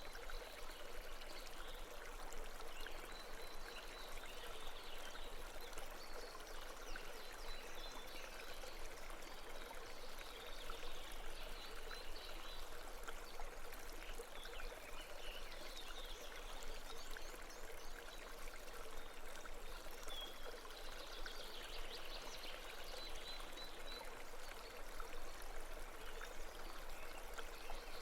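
Brook water running and babbling steadily, with faint high chirps now and then.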